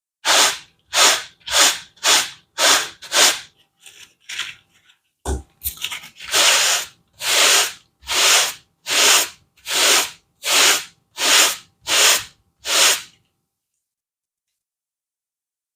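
A brush scrubbing a carpet pile in repeated strokes: six quick strokes, a few light scrapes and a knock about five seconds in, then a run of about nine slower, longer strokes that stop about two-thirds of the way through.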